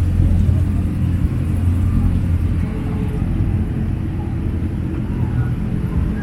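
Car engine running at a steady low rumble, with faint voices in the background.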